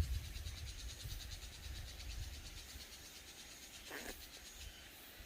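Insects trilling in a steady, evenly pulsing rhythm in the woods, with a low rumble on the microphone underneath and one brief swish about four seconds in.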